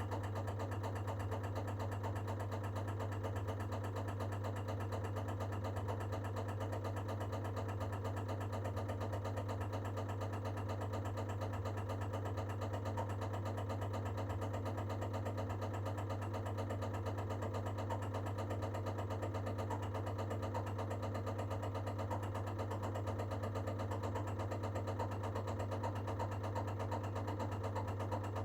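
Baxi Duo-tec gas condensing combi boiler knocking rapidly and evenly over a steady low hum as it prepares to fire for heating; the cause is unknown to the owner.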